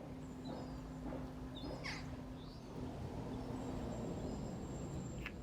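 Faint bird chirps, a few short high calls, over a low steady hum.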